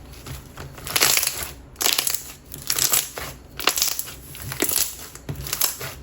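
Glittery coated clear slime being pressed and stretched by hand, giving crispy crackling bubble pops in repeated bursts, about one a second.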